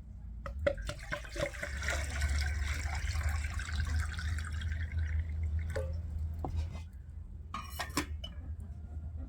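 Liquid poured in a steady stream into a glass for about four seconds, followed by a few light clicks and clinks.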